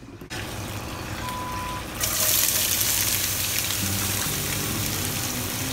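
Hot oil and ghee sizzling in a pan, the sizzle jumping much louder about two seconds in as sliced onions go into the fat.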